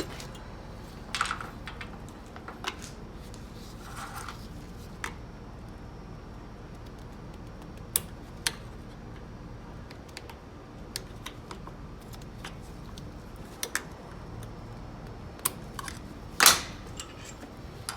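Scattered sharp clicks and clinks of metal automatic-transmission parts being handled and fitted as the C clutch pack is put back together, with a couple of brief scraping rustles in the first few seconds and the loudest click near the end.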